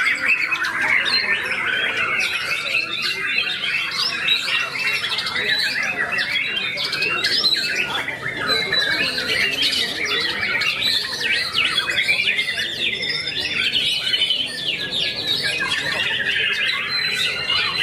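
White-rumped shama (murai batu) singing a long, unbroken stream of rapid, varied notes.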